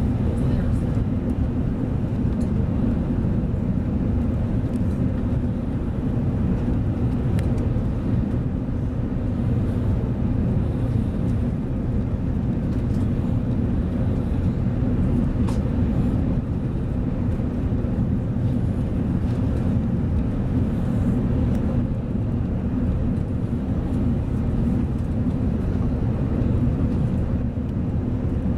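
Steady low rumble of Airbus A380 cabin noise, engines and airflow heard from inside the passenger cabin, with a few faint ticks.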